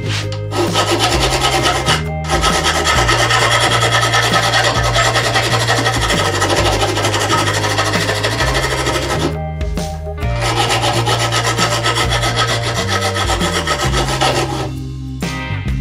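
Hand file rasping across the edge of a metal plate held in a vise, in two long spells of strokes with a short break about nine seconds in, stopping shortly before the end.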